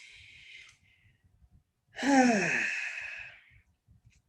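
A person's long voiced sigh about two seconds in, falling in pitch with a breathy hiss, after a short sharp intake of breath at the start.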